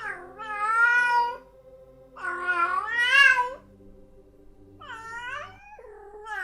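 Domestic cat meowing: three long drawn-out meows a second or so apart, then a shorter one near the end.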